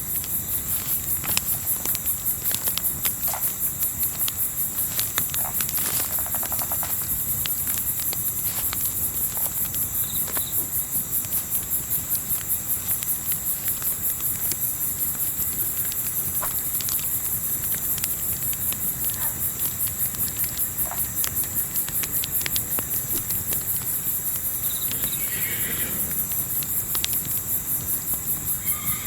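Crickets chirping steadily at a high pitch, with the scattered sharp crackles and pops of a campfire throughout. A short animal call sounds near the end.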